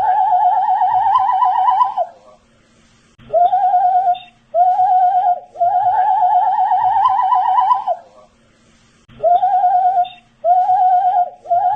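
A man whistling a short repeated phrase: two brief level notes, then a longer warbling note that climbs slightly, the phrase coming round about every six seconds.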